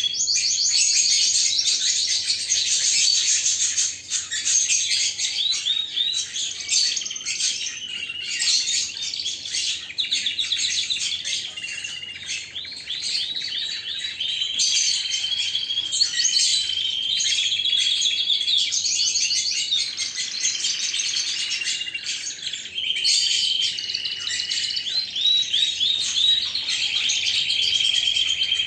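Domestic canary singing a long, unbroken, high-pitched song of rapid trills and rolling repeated notes, easing off briefly about two-thirds of the way through.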